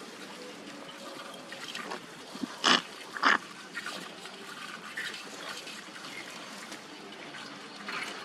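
Close-miked wet eating sounds of someone chewing and sucking on spicy fried crab, with two louder sounds close together about three seconds in.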